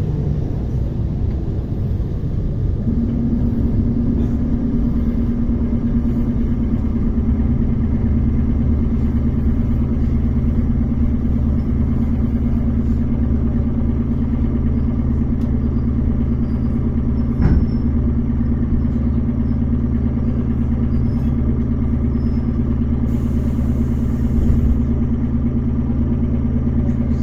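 ER9T electric multiple unit running between stations, heard from inside the carriage: a steady low rumble of wheels and running gear with a constant electrical hum that comes in a few seconds in. A single sharp click sounds past the middle, and a smaller knock near the end.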